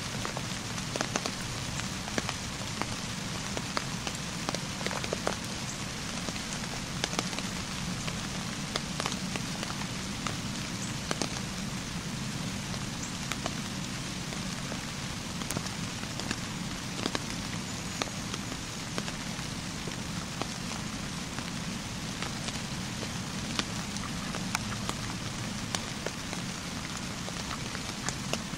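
Steady rain falling: a constant hiss with many sharp drop ticks scattered through it.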